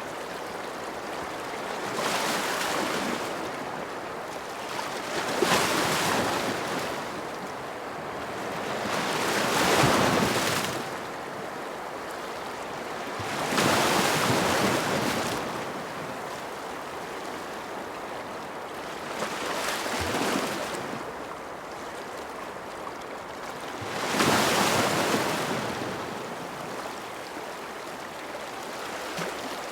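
Ocean waves breaking on a shore, about six swells of surf that each build and wash away over a few seconds, over a steady wash of water noise.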